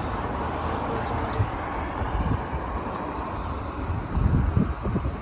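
Steady outdoor background rumble with wind buffeting the microphone, the gusts getting stronger about four seconds in.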